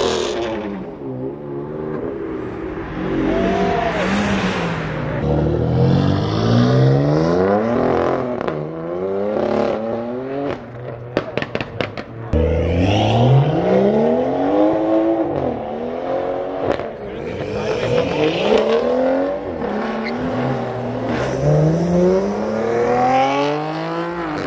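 Car engines revving hard over and over, pitch climbing and dropping every few seconds as cars spin donuts, with tires squealing. A quick run of sharp cracks comes near the middle.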